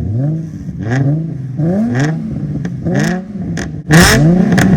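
A car engine is revved hard in quick repeated blips through a loud exhaust, each blip a short rising sweep in pitch. A few sharp cracks come near the end, the loudest about four seconds in.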